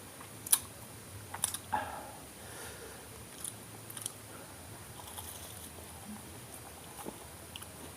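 Biting and chewing of Indonesian fried snacks (gorengan: fried tofu and tempeh), with a sharp crisp bite about half a second in, a few more around a second and a half in, then quieter chewing ticks.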